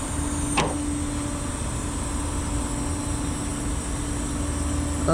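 Vehicle engine idling: a steady low rumble with a constant hum, broken once by a short sharp click a little over half a second in.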